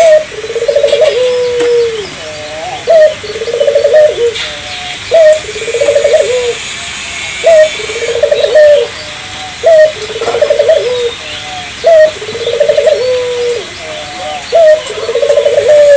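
Barbary dove (burung puter) in full song ("gacor"), cooing over and over: a short upward note, then a fluttering coo that falls in pitch, repeated about every two seconds.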